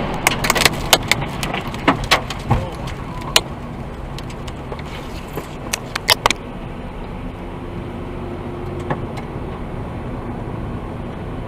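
Steady car and road rumble with a run of sharp knocks and clattering clicks over the first six seconds, then only the steady running noise.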